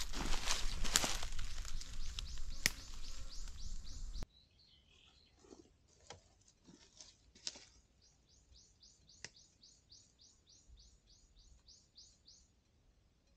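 Crunching and rustling, as of footsteps through forest-floor debris, with a few sharp snaps for about the first four seconds, then it cuts off abruptly. Through it and after, a bird calls in quick runs of short, high, falling notes, about four to five a second.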